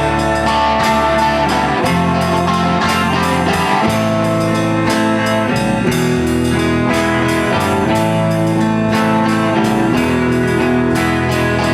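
Band music: an instrumental guitar passage in a blues-rock vein, with held guitar and bass notes over a steady beat.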